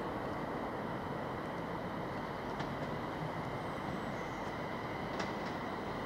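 London Midland Class 350 Desiro electric multiple unit approaching slowly over the pointwork, a steady rumble of wheels on track, with two sharp clicks from the wheels over rail joints or points.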